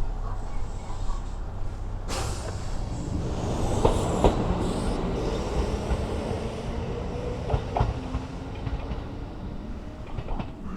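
Kintetsu Suzuka Line train running on the rails: a steady low rumble with a few sharp wheel clacks over the rail joints, in pairs.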